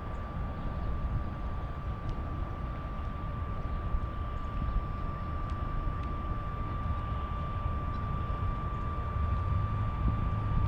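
Steady low rumble of an idling vehicle engine, with a constant high-pitched tone above it.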